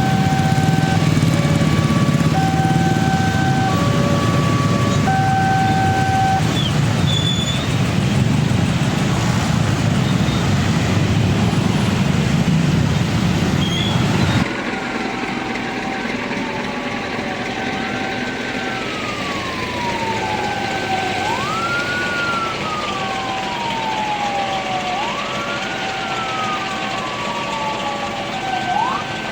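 Railway level-crossing warning alarm sounding in a repeating pattern of alternating tones, over the heavy low rumble of a passing train, which cuts off suddenly about halfway through. After that a wailing siren tone rises quickly and falls slowly about every three seconds over the alarm.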